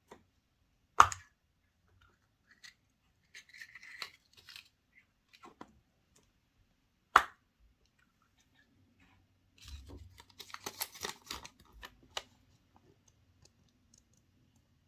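Handling chocolate surprise eggs and their packaging: two sharp snapping clicks, about six seconds apart, with spells of wrapper rustling and a longer burst of crinkling and tearing.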